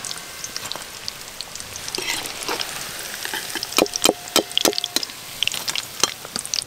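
Chicken pakoras frying in hot oil in an aluminium karahi, a steady sizzle with crackling pops. About four seconds in, a ladle knocks against the metal pan several times with short ringing clinks as the fried pakoras are lifted out.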